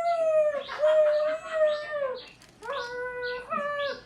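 A person imitating a male chaffinch's call with the voice, in long, wavering, held cooing notes and then two shorter notes near the end.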